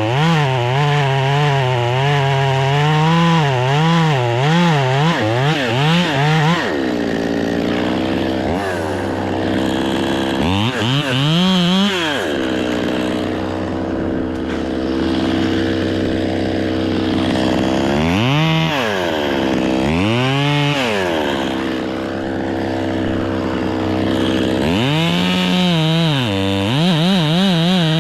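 Two-stroke chainsaw running, its pitch swinging quickly up and down for the first several seconds as it is revved, then dropping lower. It revs up and back down again a few times, most busily near the end.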